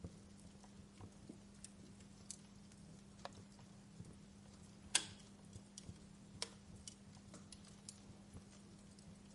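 Wood fire crackling in a fireplace: faint, scattered clicks and small pops, with one sharper pop about five seconds in and another a second and a half later, over a steady low hum.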